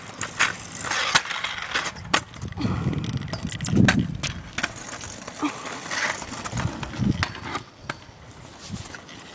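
Scooter wheels rolling over pavement with a low rumble, broken by many sharp clicks and knocks.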